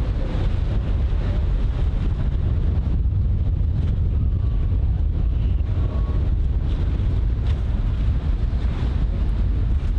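Wind buffeting the microphone: a steady, loud low rumble with a haze of noise above it.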